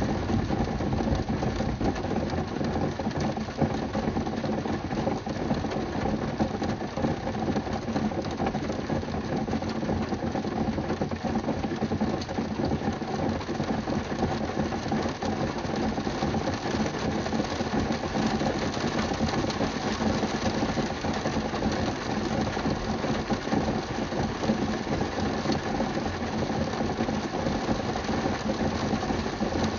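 Rain hitting a car's roof and windshield, heard from inside the car: a dense, steady patter with no thunder.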